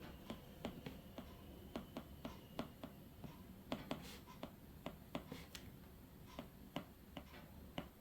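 Faint pen writing: a series of short, sharp ticks, about two or three a second, as a calculation is written out.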